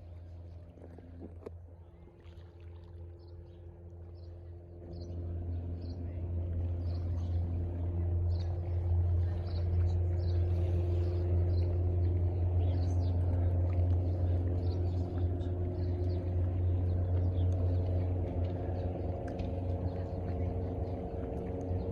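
Cessna floatplane's piston engine and propeller running with a steady low drone, growing louder about five seconds in and then holding.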